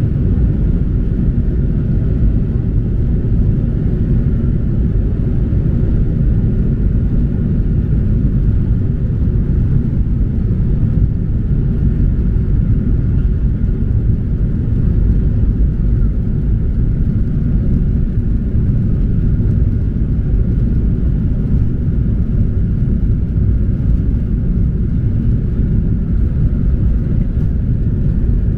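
Steady low drone inside the economy cabin of a Boeing 737-800 after takeoff: its CFM56-7B engines and the airflow over the fuselage, even and unchanging, with a faint steady whine above the rumble.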